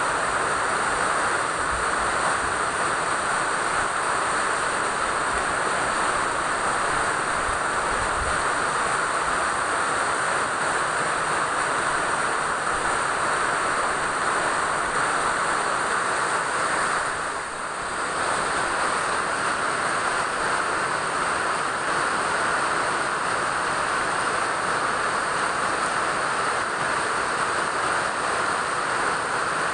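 Steady rain falling: an even, unbroken hiss that eases briefly a little past halfway.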